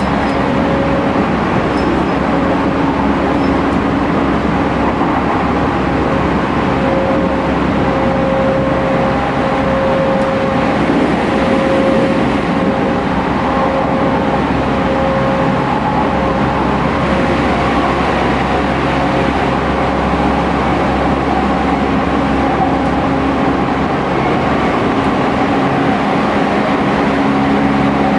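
Tokyu 5000 series electric train running at speed, heard inside a motor car: a steady hum from the IGBT inverter-driven traction motors over the rumble of wheels on rail.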